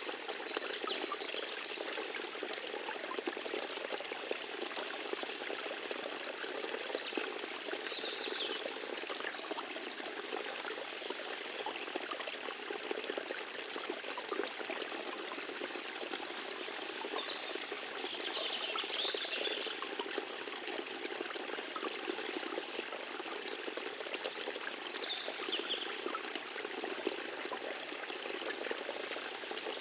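Small forest stream trickling and burbling steadily, with a few faint high bird calls now and then.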